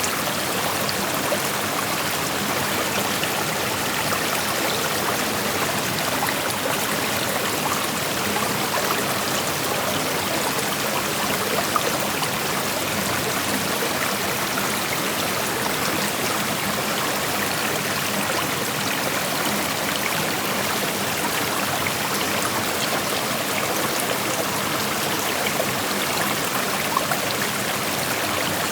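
Small rocky creek flowing steadily over stones, a constant rushing hiss with faint splashes and trickles mixed in.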